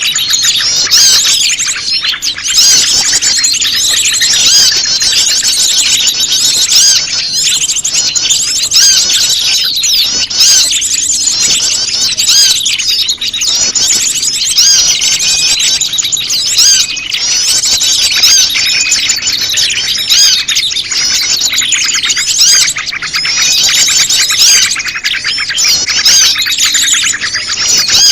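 Bird-lure recording of many small birds chirping and trilling at once: prenjak lumut calls mixed into a busy chorus of noisy birds, dense and unbroken throughout.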